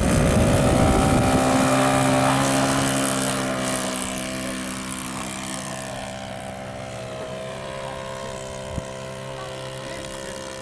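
Radio-controlled model airplane engine running at a steady pitch, loud at first, then fading as the plane flies away.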